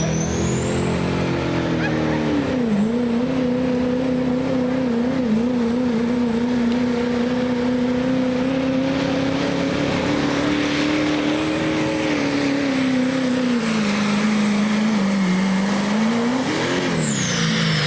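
A turbocharged work stock diesel pickup truck's engine runs hard at high revs under full load while pulling a sled, with a high whistle from the turbocharger over it. The engine pitch dips briefly about three seconds in and again near the end. Near the end it flares up, then drops as the throttle comes off, and the whistle falls away with it.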